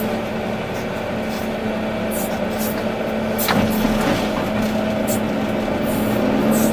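Volvo EC380D excavator's diesel engine running steadily under work, with short hydraulic hisses and a single knock about halfway through.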